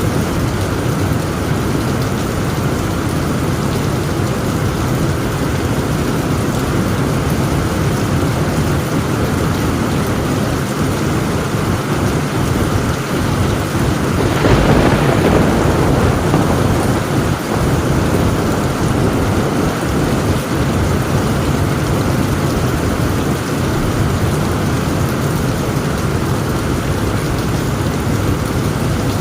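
Heavy, steady rain drumming on a tin roof, with a rumble of thunder swelling up about halfway through and fading over a couple of seconds.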